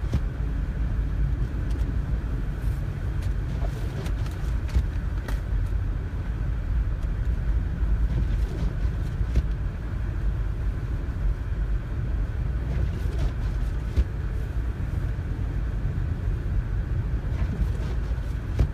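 Steady low rumble of a car driving on a snow-covered road, heard from inside the cabin, with scattered faint clicks.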